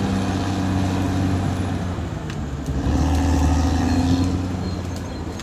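Caterpillar D6R XL bulldozer's diesel engine running steadily under work. It grows louder about three seconds in, then eases off near the end.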